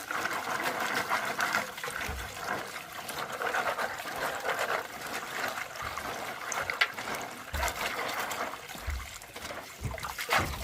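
Water trickling and running steadily, with a few soft low thumps.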